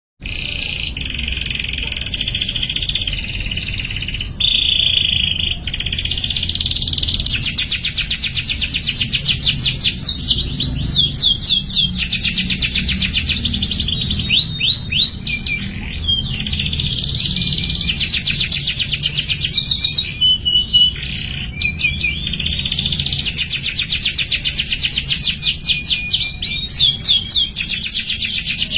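Domestic canary singing a continuous song of rapid trills and rolls, broken by a few rising and falling whistled slides, over a low steady hum.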